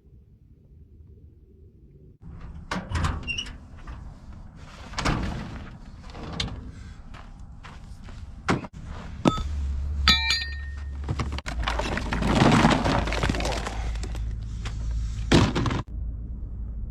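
A series of knocks and thuds, with one ringing metallic clang about ten seconds in and a low steady hum from about nine seconds on.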